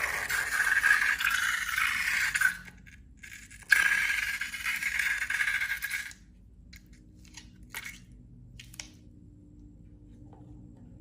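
Two long, noisy scraping or hissing sounds, each about two and a half seconds, with a short gap between them. After them come a few faint clicks.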